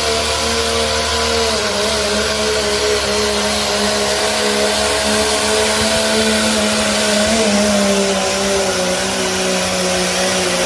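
Diesel pickup truck pulling a sled at full throttle, its engine drone holding high and sagging slowly in pitch across the pull.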